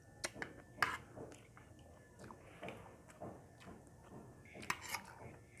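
Close-miked chewing of rice and vegetables, soft wet mouth noises, with a few sharp clicks of a spoon against a plate; the loudest clicks come just under a second in and again near the end.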